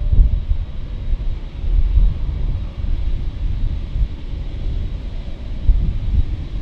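Low, uneven rumble of a jet airliner at the airport, mixed with wind buffeting the microphone.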